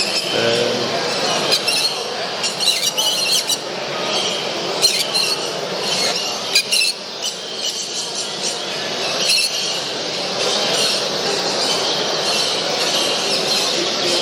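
Many caged show birds chirping and singing together in a large exhibition hall, over a murmur of distant voices.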